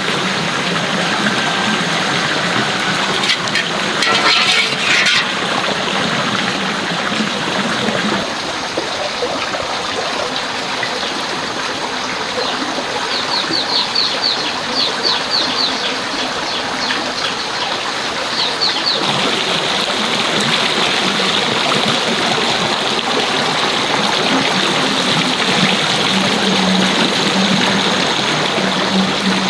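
Steady rushing of flowing water, with two runs of quick, high chirps around the middle.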